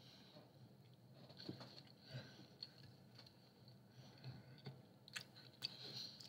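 Faint, close-up chewing of a mouthful of pizza, with scattered soft mouth clicks and smacks.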